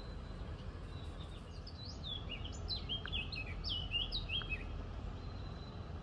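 A songbird singing: a quick run of clear whistled notes, each stepping down in pitch, starting about two seconds in and lasting a couple of seconds, over a steady low background rumble.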